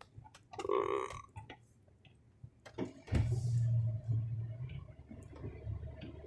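A short burp about half a second in, inside a moving car. About three seconds in, a low rumble of engine and road noise swells for a second or two with a brief hiss, likely a wet road.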